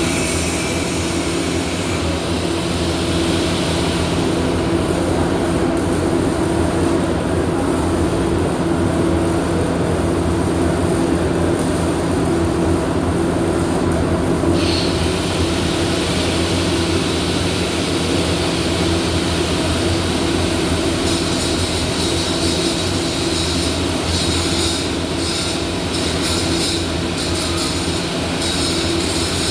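Steady electrical and mechanical hum of welding equipment, with irregular crackling hiss joining about twenty seconds in, the kind an electric welding arc makes.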